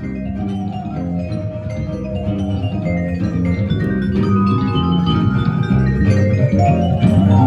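Instrumental break in live samba-style music with no singing: a plucked melody of short pitched notes over a steady bass pattern, growing louder toward the end.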